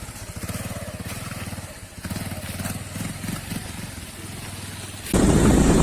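Motorcycle engine running at low revs, pulsing evenly as it creeps slowly over a rough track. About five seconds in, a sudden much louder rush of noise takes over.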